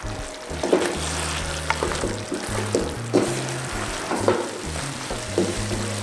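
Fried battered chicken pieces being stirred into bubbling, thickened orange sauce in a frying pan. The sauce sizzles, and the spatula scrapes and knocks against the pan about once a second.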